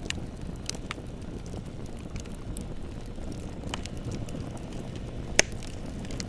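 Wood bonfire burning with a low steady rumble and scattered crackles, and one loud pop about five seconds in.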